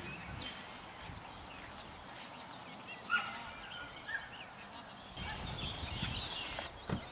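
Songbirds chirping and singing in short wavering phrases. In the second half there is a low rustling rumble, and there are a couple of soft knocks, one about three seconds in and one near the end.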